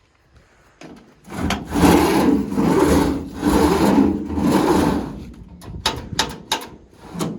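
Heavy metal drawer of a truck-bed tool box rolling on its greased rollers for about four seconds, followed by several sharp clicks and knocks.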